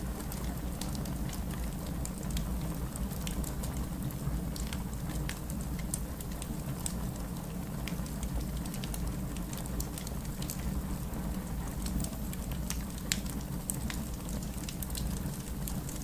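Wood fire crackling in a fireplace: a steady low rumble of the burning with frequent irregular sharp pops and snaps.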